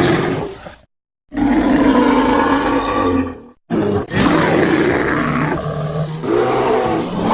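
Creature sound effect of the prehistoric short-faced bear Arctotherium angustidens: a series of deep, rough bear roars. One roar ends just under a second in; after a short silence a second roar runs for about two seconds, and after another brief gap a third long roar begins and carries on.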